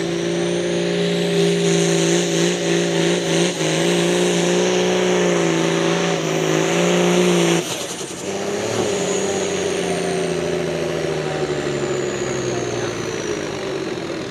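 A competition pulling vehicle's engine running hard at high revs under full load, its pitch wavering, then abruptly chopped about seven and a half seconds in as the pass ends. Afterwards a lower engine sound carries on under a high whine that slowly falls away.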